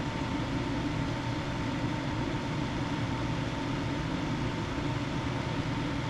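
Steady whir of a fan, with a faint thin tone running through it.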